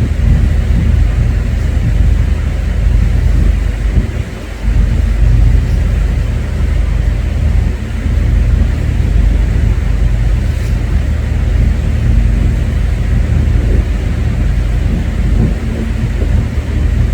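Steady, loud low rumble of a car ferry under way, with a faint constant hum over it.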